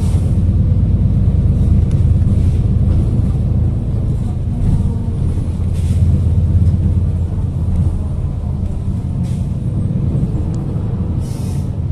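City bus heard from inside the cabin while riding: a steady low engine and road rumble, with a few short hisses, the clearest near the end.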